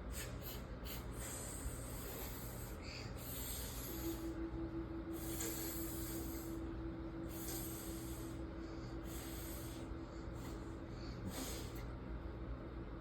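A person blowing air out in about six separate hissing breaths, each a second or so long, practising the 'f' letter sound by blowing as if at a candle.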